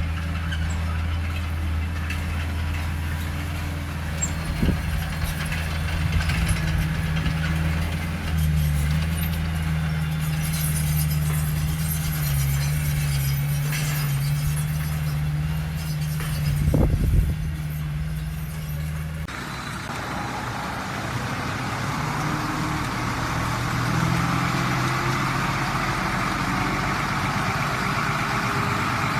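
Heavy diesel engine of earthmoving machinery running steadily, with a couple of knocks. About two-thirds of the way through the sound changes abruptly to a different engine with more hiss in it.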